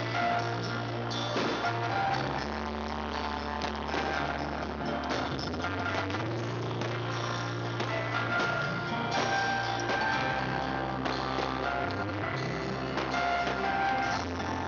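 Loud live rock music, a band with bass guitar, electric guitar and drums, with the bass moving between held notes every second or two. The recording is distorted by how loud it is.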